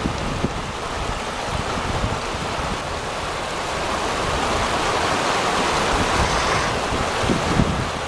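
Rushing river water, a steady noisy rush, with wind buffeting the microphone in scattered low thumps.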